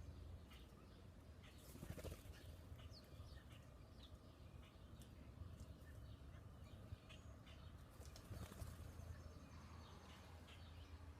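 Faint, scattered chirps of small birds, with a flurry of wingbeats about two seconds in and again near the end, as birds fly in and out around a feeder.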